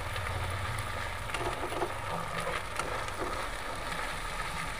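Onion, garlic and ginger paste frying in oil in a steel kadai, sizzling steadily while a metal spatula stirs and scrapes lightly against the pan a few times, over a low steady hum.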